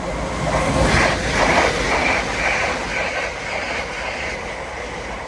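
Two coupled Class 379 Electrostar electric multiple units passing at speed, their wheels running on the rails in a steady rush with a pulsing rhythm about twice a second. It is loudest about a second in, then gradually dies away.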